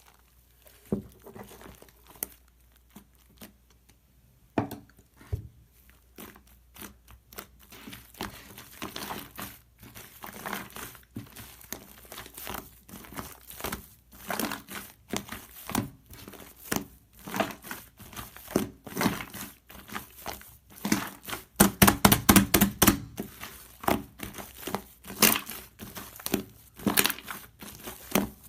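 Crinkling and crackling, as of something being crumpled or handled: irregular sharp crackles, few at first, then busier, loudest in a dense cluster about three-quarters of the way through.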